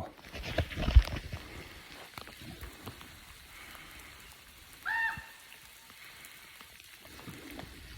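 Steady rain falling, with a few dull knocks in the first second and a short high call about halfway through.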